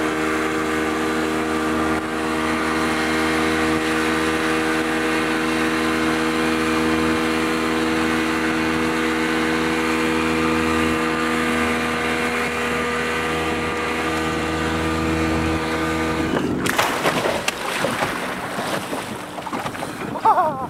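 Motorboat engine running steadily at constant speed. About four seconds before the end it stops abruptly, and uneven splashing water and wind noise take over.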